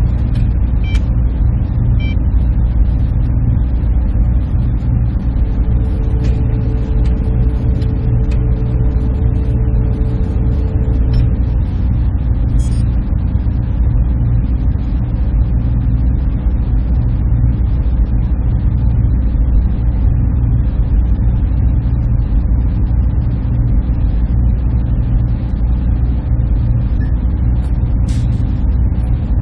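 Server room hum: a steady, deep, unbroken drone of machines and cooling, with a faint steady tone coming in for a few seconds early on.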